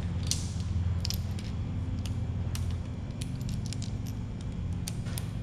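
Scattered light metallic clicks and clinks as broken fragments are picked out of a failed 5.0 Coyote V8 and set down, over a steady low hum.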